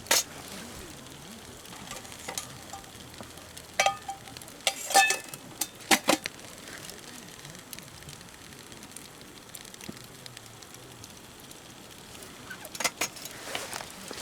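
Wood campfire crackling under a soft steady hiss, with sharp pops: one at the start, a cluster in the middle and more near the end.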